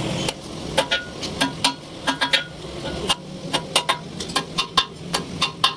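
A series of light, irregular metal-on-metal taps, about three a second, each with a short ring of steel. A steady machine noise cuts off just before the tapping starts.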